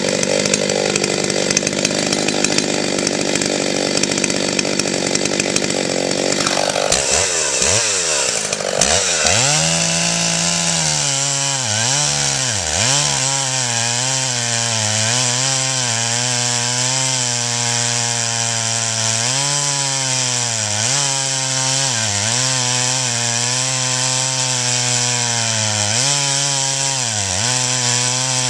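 Husqvarna 61 two-stroke chainsaw running hard with a rough, noisy sound. About seven seconds in, its revs swing down and up, then it settles into a steady engine note that sags briefly every second or two and recovers. The saw keeps running without stalling now that its flywheel and cylinder have been cleaned of packed oily dirt and sawdust.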